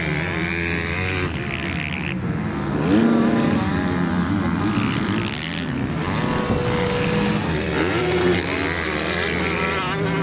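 Several 250 cc motocross bikes racing, their engines revving up and falling back in pitch through throttle changes and gear shifts, overlapping one another.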